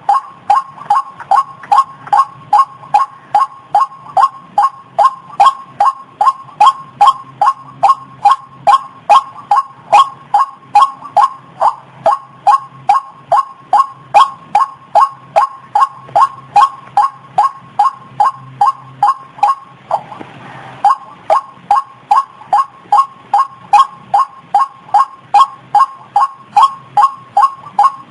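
White-breasted waterhen (ruak-ruak) calls played as a bird-lure recording: short pitched notes repeated evenly, about two a second. The calls break off for about a second roughly two-thirds of the way through, with a short hiss in the gap, then resume.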